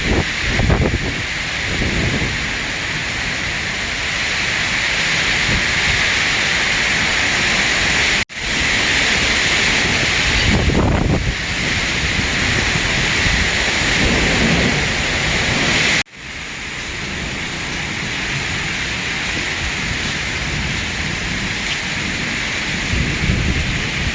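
Heavy rain pouring steadily, with low rumbles swelling now and then. The sound cuts off abruptly for a moment twice, about a third and two-thirds of the way through.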